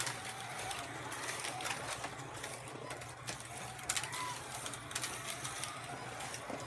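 Carrera Digital 132 slot cars running on the track: their small electric motors whine, rising and falling in pitch as the throttles are worked, over a steady low hum, with scattered sharp clicks.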